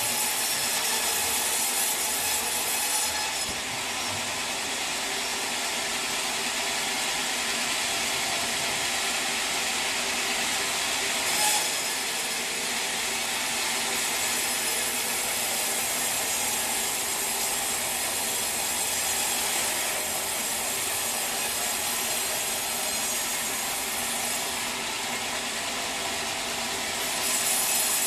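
Sawmill blade cutting through a teak log: a continuous hissing rasp of the cut, brighter for the first few seconds and again near the end, with a single sharp knock about eleven seconds in.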